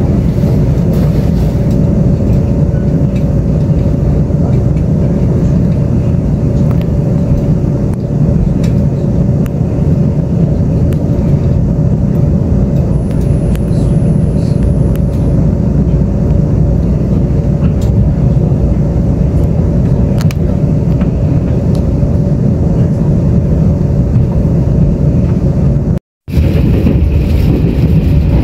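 Taiwan Railways Tze-Chiang express train running, heard from inside the passenger car: a steady, loud, low rumble with a faint hum, cutting out for a moment near the end.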